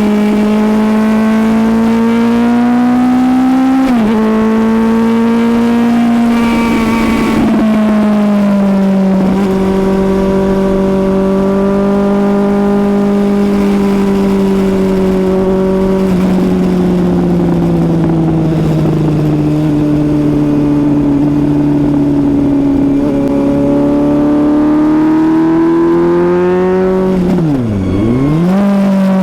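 Suzuki GSX-S750's inline-four engine running hard at high revs, the pitch drifting slowly up and down with the throttle. About four seconds in there is a small dip. Near the end the revs drop sharply and climb straight back.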